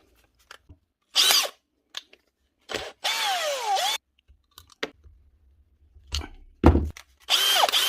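Makita DHP481 cordless drill's motor run in short trigger bursts: a brief whir about a second in, then a longer run around three seconds in whose pitch falls and climbs back, and another run near the end. A heavy thump comes just before the last run.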